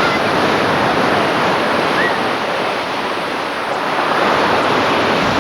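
Sea surf washing in: a steady, loud rushing of waves.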